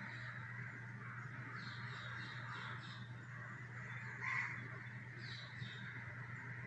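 Birds calling: several runs of short, quickly repeated calls, with one louder call about four seconds in, over a steady low hum.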